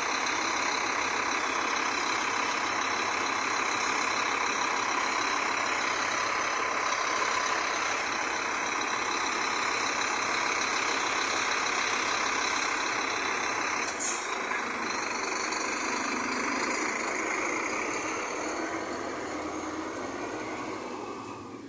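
Scania diesel engine of an Irizar i5 bus running steadily, with a single sharp hiss about fourteen seconds in, then fading away over the last few seconds.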